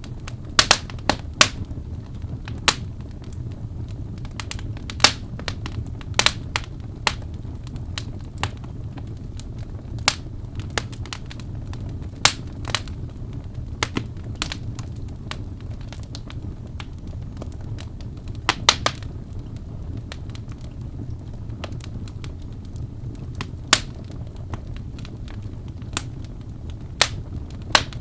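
Wood burning in a fireplace: irregular sharp crackles and pops, some in quick clusters, over a steady low rumble from the fire.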